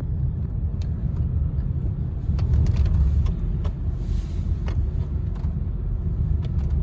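Car road noise heard from inside the vehicle while driving: a steady low rumble, with occasional faint clicks.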